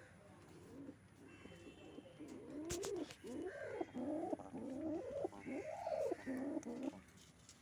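Domestic pigeon cooing: a run of low, rising-and-falling coos that starts about two seconds in and stops shortly before the end, with a single sharp click in the middle.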